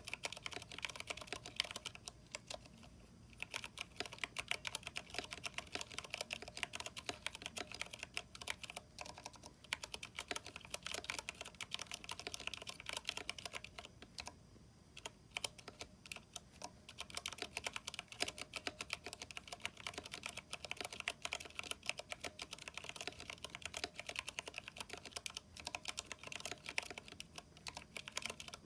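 Steady typing on a Vortex 10th Anniversary Edition mechanical keyboard with Cherry MX Brown switches, NP PBT keycaps and lubed stabilizers: a dense stream of key clacks, with short pauses about three seconds in and about halfway through.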